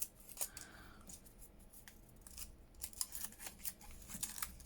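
Light clicks and paper rustles of craft papers and labels being handled and sorted on a table, a few at a time, bunching up about three seconds in.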